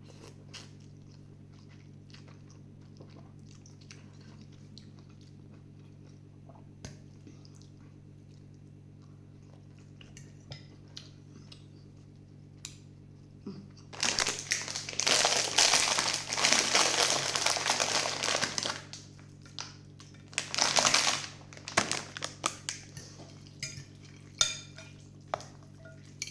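A person eating a bowl of hot rice-vermicelli soup: light clicks of utensils against the bowl, then loud slurping of the soup for about five seconds from around the middle, another short slurp a little later, and more clicks near the end. A steady low hum runs underneath.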